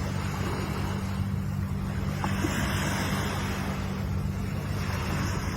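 Ocean surf washing in, a steady hiss that swells about two to four seconds in, over a constant low rumble.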